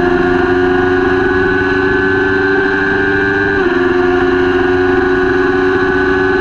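Kawasaki Ninja 400 parallel-twin engine running at high, steady revs, dropping sharply in pitch about three and a half seconds in as it shifts up a gear, then holding steady again.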